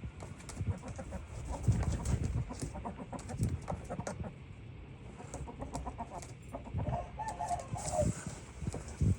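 Asil chickens clucking, with short pitched calls about three-quarters of the way through. Many sharp little ticks and low thumps are scattered throughout.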